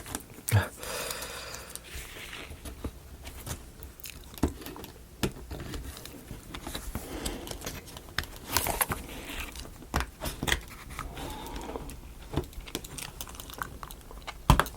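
Irregular small clicks, taps and rubbing of thin wooden model-kit pieces being handled and pressed into their slots, with a few sharper knocks.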